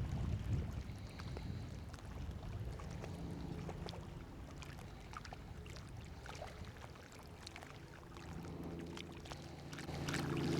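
Low wind rumble on the microphone, strongest in the first second, then faint scattered ticks and a faint steady hum that comes and goes.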